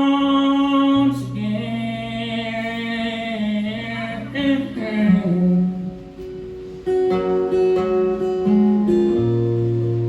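Live acoustic song: a male singer holds a long final note over acoustic guitar. The voice ends about five seconds in, and the acoustic guitar plays on alone.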